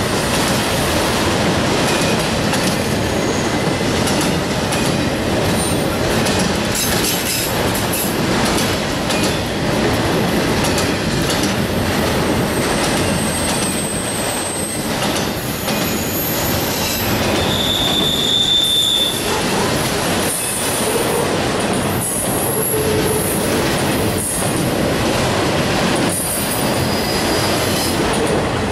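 Railroad cars rolling steadily past at close range, with brief high-pitched wheel squeals now and then, the clearest about two-thirds of the way through.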